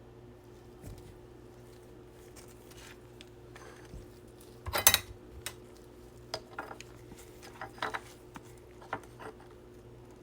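Trading cards being handled on a table: scattered short clicks and taps, with the loudest cluster about five seconds in.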